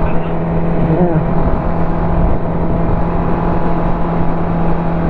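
Ducati motorcycle engine running at a steady speed under way, one even engine note with a steady rushing noise over it. There is a brief change in pitch about a second in.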